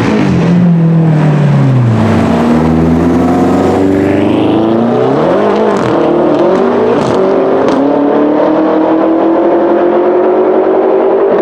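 BMW M5 F10's twin-turbo V8 with an Akrapovic exhaust. The engine note falls over the first couple of seconds, gives a quick rev up and down about five seconds in, then climbs slowly and steadily in pitch as the car accelerates.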